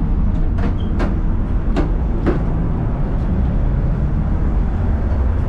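Steady low rumble inside the cabin of a Fuxing high-speed train running at speed, with a few short sharp clicks in the first half.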